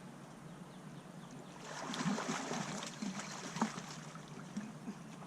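Water splashing and sloshing as a hooked blue catfish is brought to the net at the water's edge, over the steady rush of the river; the splashing swells about two seconds in, with a sharp click about three and a half seconds in.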